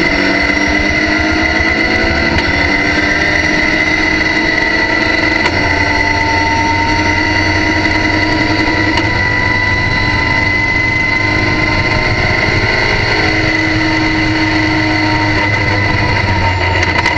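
Race car engine heard from inside the cockpit at full throttle, pulling up through the gears: its pitch climbs and drops back at each of several upshifts, with a steady high whine over it.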